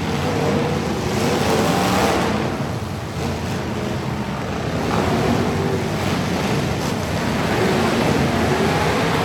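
Truck engines running, with a pitch that wavers, under a steady rushing noise.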